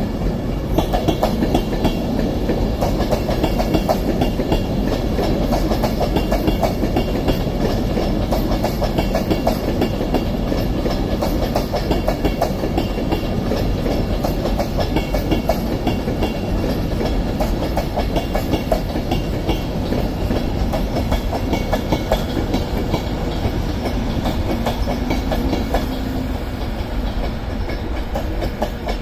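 Class 390 Pendolino electric express train running through the station without stopping, its wheels clattering steadily over the rail joints and pointwork.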